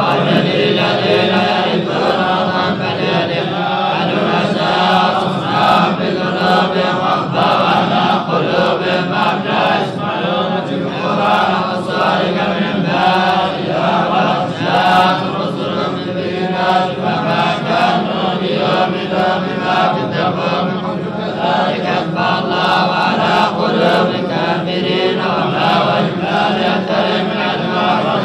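A man's voice chanting Quran recitation in melodic tajweed style, a continuous drawn-out line that rises and falls in pitch without a break.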